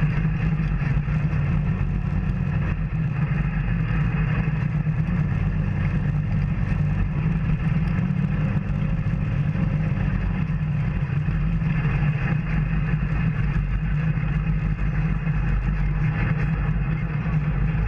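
Off-road vehicle engine running steadily on a trail ride, with no clear revs or stops.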